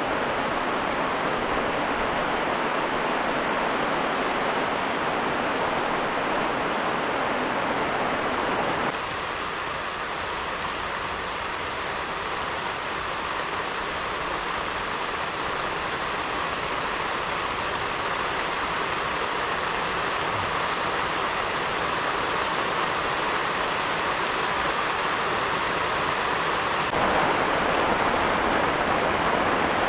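Steady hiss of heavy rain, its sound changing abruptly about nine seconds in and again near the end.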